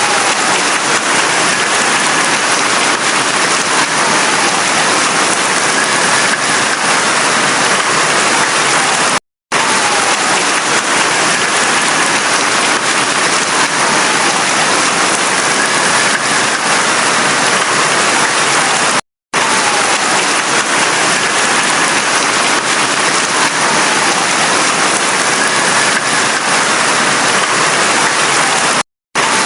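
Steady heavy rain falling. The sound cuts out completely for a split second three times, about every ten seconds.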